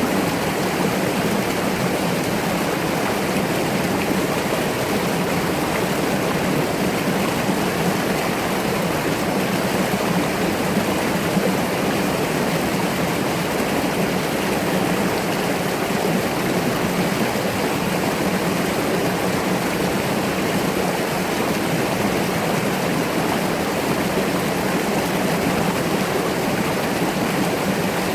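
Mountain stream rushing steadily over rocks, an even, unbroken flow of water.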